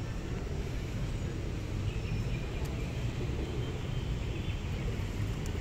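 Steady low rumble of city traffic, with faint voices in the background.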